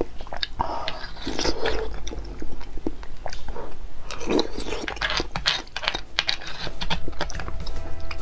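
Wet, close-up chewing of soft beef bone marrow eaten from a spoon, with many quick mouth clicks.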